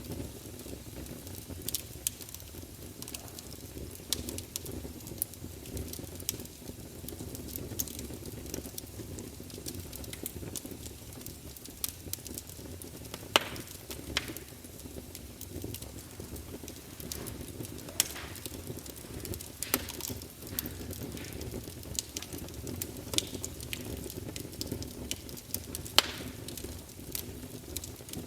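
Campfire burning, with a steady low rumble and frequent irregular crackles and pops of the burning wood; two louder pops stand out, about halfway through and near the end.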